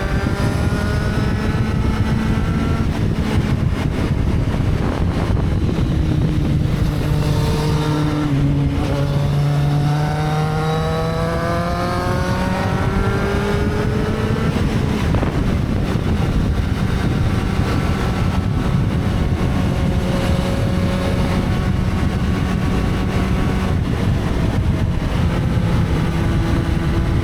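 Motorcycle engine running under way, its note falling and rising again several times as the engine speed changes.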